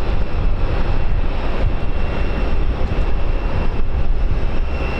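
Steady roar of an aircraft landing, a dense rushing noise heavy in the low end.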